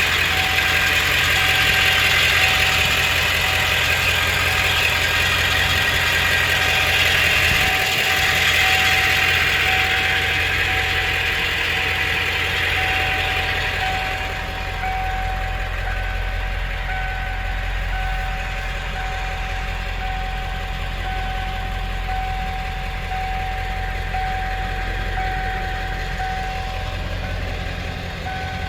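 1995 Ford F-350's 7.3 L Power Stroke turbo-diesel V8 idling steadily, with the usual diesel knock.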